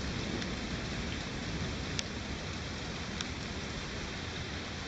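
Steady rain falling during a night thunderstorm, with a couple of sharp drip ticks close by.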